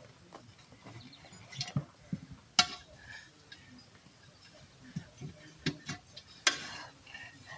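Scattered metal clinks and knocks of hand tools against a steel wheel rim while a tire is being worked off by hand. The two sharpest strikes come about two and a half seconds in and near the end.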